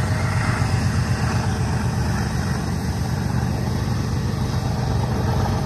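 Intermodal freight train rolling past: a steady low rumble of the well cars on the rails, with the BNSF diesel locomotives pulling away.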